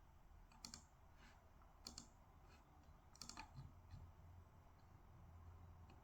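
Faint, scattered clicks from desk work: a single click just under a second in, another near two seconds, and a quick run of several clicks a little past three seconds, over a low steady hum.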